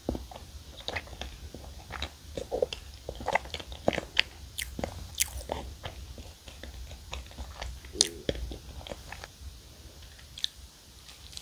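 Chewing a soft marshmallow-filled choco pie, with many small sticky mouth clicks and smacks; the clicks thin out near the end.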